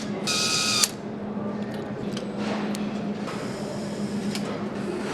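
Factory machinery: a high electric whine that cuts off about a second in, then a steady machine hum with scattered clicks and knocks.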